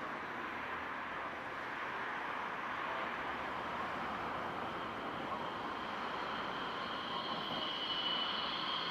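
CFCLA GL class diesel locomotives and their train approaching: a steady rushing running noise that grows slightly louder, with a high steady whine coming in near the end.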